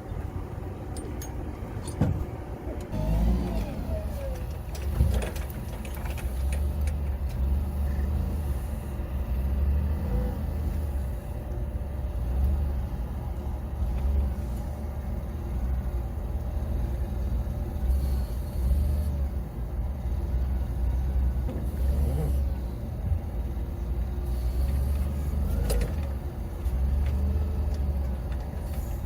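Forklift engine running with a steady low rumble while it is driven into position to lift an engine block, with a few sharp knocks.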